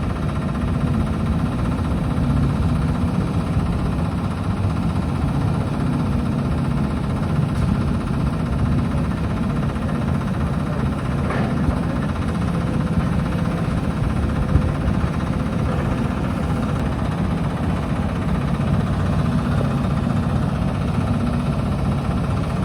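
Diesel excavator engine running steadily on a demolition site, with a single brief knock a little past the middle.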